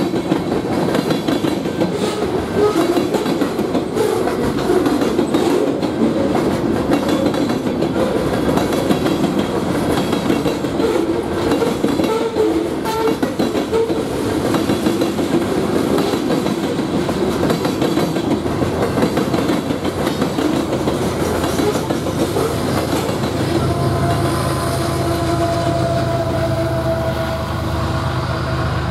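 Freight train of tank cars and covered hoppers rolling through a grade crossing: a steady clatter and rumble of wheels over the rails. It thins out about 23 seconds in as the last car clears, leaving a low steady hum.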